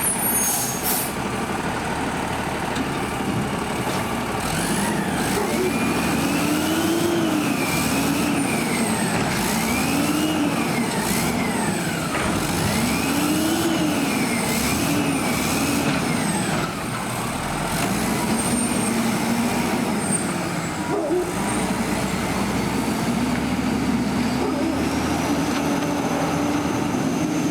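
Peterbilt 320 garbage truck's diesel engine revving up and down over and over, each rev rising and falling within a second or two, then settling and climbing more steadily near the end.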